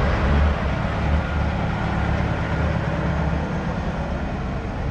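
Heavy truck diesel engine running steadily, with a deep, fast-pulsing rumble.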